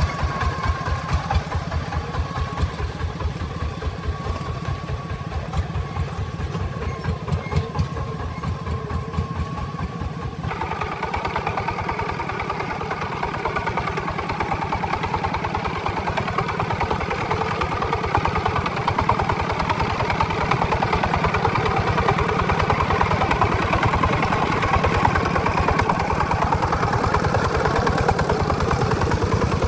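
A truck engine running, with a steady low pulsing for the first ten seconds. About ten seconds in the sound changes abruptly to a louder, fuller engine note, which holds steady to the end.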